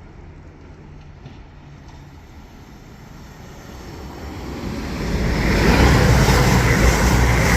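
CrossCountry Class 220 Voyager diesel-electric multiple unit passing through the station without stopping. It is faint at first, then grows loud from about four seconds in as the train runs past.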